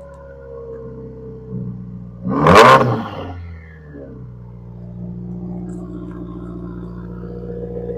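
2015 Subaru WRX's turbocharged 2.0-litre flat-four (FA20DIT) through a turbo-back exhaust with a catted J-pipe and custom axle-back, idling steadily with one short sharp throttle blip about two and a half seconds in that drops straight back to idle.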